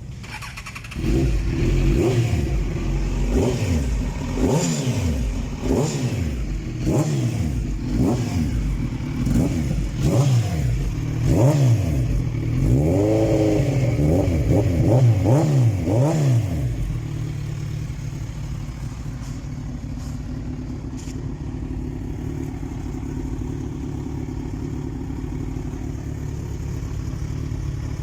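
Kawasaki Z1000SX's inline-four engine revved in a string of throttle blips, each rising and falling in pitch, for about fifteen seconds. It then settles into a steady idle.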